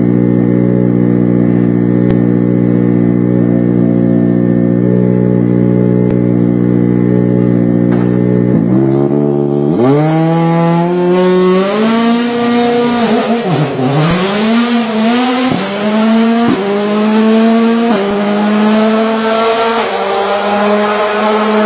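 Rally car engine running at a steady pitch for several seconds, then accelerating hard with its pitch climbing and dropping again and again as it shifts gears. A loud rushing noise builds up under the engine once the car is moving.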